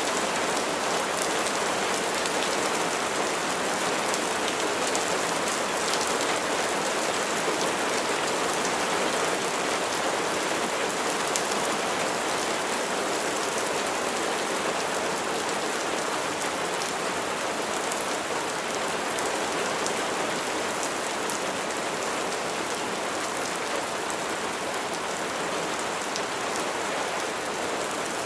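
Steady rain falling on a surface, an even hiss filled with many fine drop ticks.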